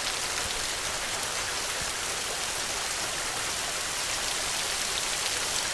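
Steady rain: an even hiss of falling water, strongest in the high range, speckled with many small drop ticks.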